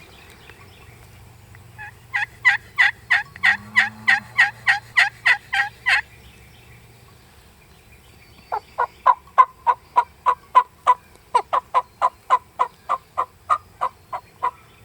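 Turkey yelps: two long runs of short, evenly spaced notes at about four a second, the first run higher-pitched and the second lower, with a pause of about two seconds between them.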